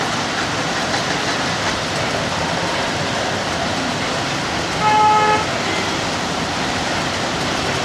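Steady wash of heavy rain and street traffic. A vehicle horn honks once, about five seconds in, the loudest sound.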